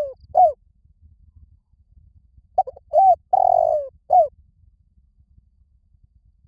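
Spotted dove cooing: the last note of one phrase right at the start, then, about halfway through, one full phrase of short coos with a longer drawn-out note before a final coo. It is the male's advertising coo, the kind played to lure wild doves in.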